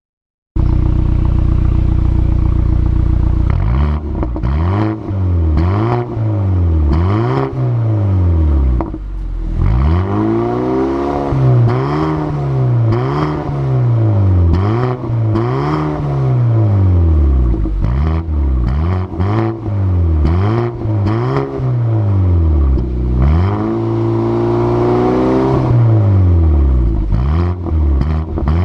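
BMW F32 428i's 2.0-litre turbo four-cylinder through an aftermarket dual exhaust with the resonator deleted and the exhaust valves open. It idles steadily for a few seconds, then is free-revved in quick blips that rise and fall about once a second, with a longer held rev near the end.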